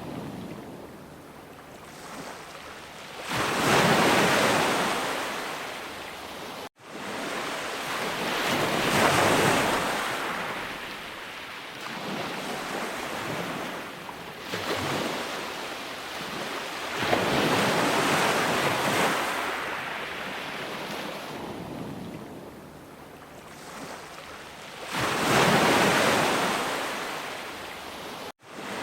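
Ocean waves surging in and washing back, rising and falling every several seconds, with about four big swells. The sound cuts out for an instant twice, once about a third of the way in and once just before the end.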